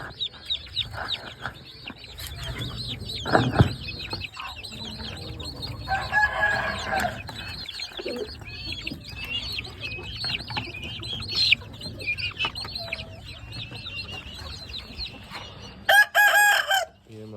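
Chickens clucking against a constant patter of high, short chirps. Two longer, louder calls come from the birds, one about six seconds in and one near the end; these fit a rooster crowing.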